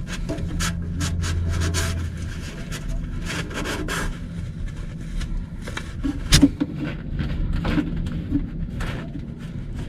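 Handling noise from a hand groping around the back of a boat engine's oil pan: scattered rubbing and clicks, with one louder knock about six seconds in.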